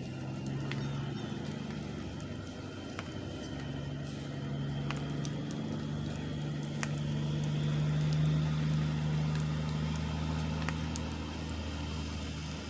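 Semi truck's diesel engine running with a steady low drone that swells to its loudest about eight seconds in, then eases slightly. Scattered faint clicks sound over it.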